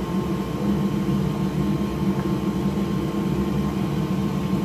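Steady mechanical hum of a running fan, unchanging throughout.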